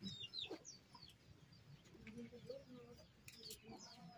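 Faint bird calls: quick, high, falling chirps near the start and again about three seconds in, with a few lower calls around two seconds in.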